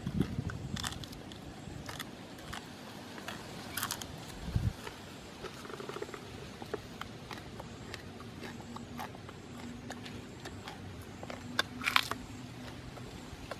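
A person chewing and crunching roasted quail: scattered wet mouth clicks and small crunches, with a denser burst of them near the end as he bites again.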